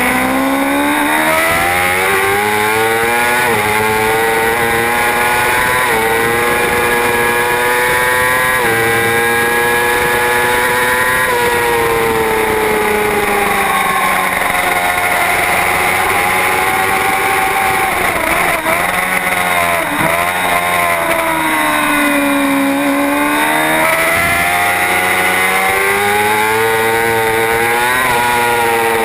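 Superbike racing motorcycle engine at race pace, its pitch repeatedly climbing under hard acceleration and falling away, with a long slow-down through the middle before it winds up again near the end.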